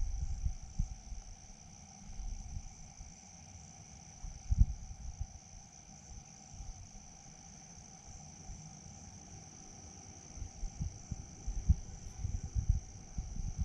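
Crickets chirping in a steady high trill. Irregular low rumbles and thumps on the microphone come and go, the loudest about four and a half seconds in and a cluster near the end.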